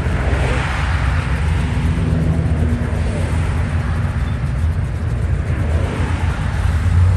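Car engine exhaust rumbling steadily at low revs as a car pulls away, with no hard revving.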